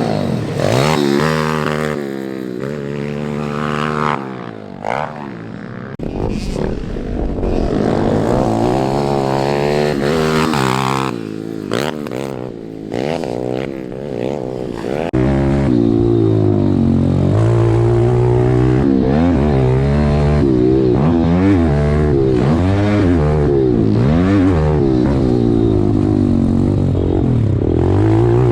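Small single-cylinder four-stroke pit bike engine revving up and down over and over as it is ridden through the gears. It gets louder and more continuous from about halfway through.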